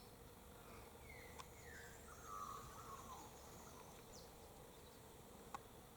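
Faint calls of a spiny-cheeked honeyeater: a few short falling whistles, then a gurgling, warbled phrase about two seconds in, over a faint steady hum.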